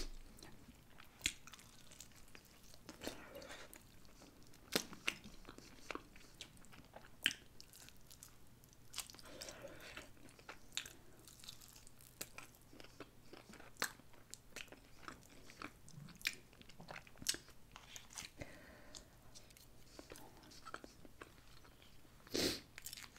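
Close-miked biting and chewing of a sauced barbecue pork rib: faint, irregular mouth clicks and smacks, with a louder cluster near the end.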